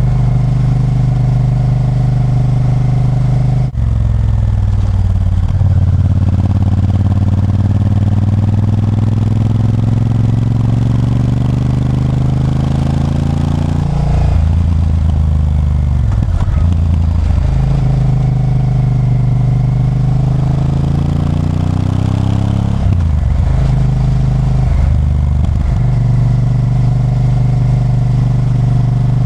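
Honda Varadero 1000's 90-degree V-twin engine pulling under load. Its note climbs steadily, then drops sharply at gear changes, a few times over.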